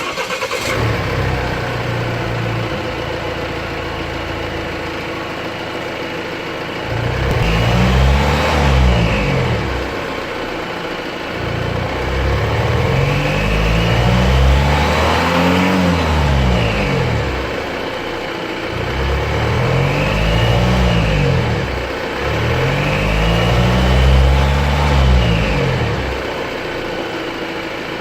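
A 2017 Volvo XC60 D3's 2.0-litre four-cylinder diesel engine idling and revved four times, each rev climbing and falling back over a few seconds. A faint high whistle from the engine bay rises and falls in pitch with the revs. This is an undiagnosed whistling fault that persists after intake pressure tests, a tubing check and a DPF regeneration.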